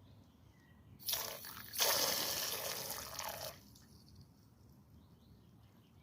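Rushing, spraying water that starts abruptly about a second in, surges again a moment later, then fades out after about two and a half seconds.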